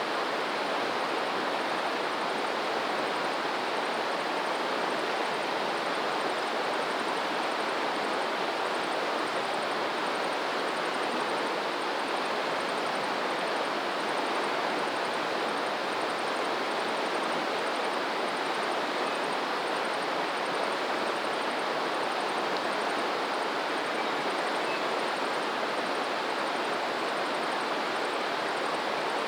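Stream water rushing steadily, an even unbroken rushing noise. A faint, high, evenly repeated ticking runs underneath.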